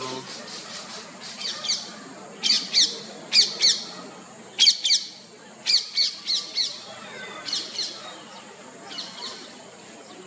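Black-hooded oriole calling: short, sharp notes that sweep downward, given in quick pairs and short runs about once a second. The calls are loudest about halfway through and fade near the end.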